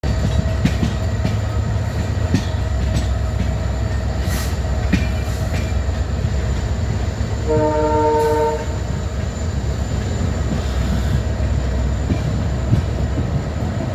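Three EMD WDG4-class diesel-electric locomotives with two-stroke engines humming with a steady low rumble. A short horn blast sounds once about halfway through.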